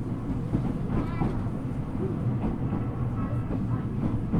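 Steady low hum inside a Ueda Electric Railway 1000 series train car, with faint voices in the background.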